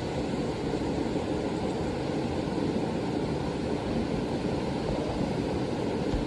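Steady roar of a large waterfall: constant rushing water noise with no breaks.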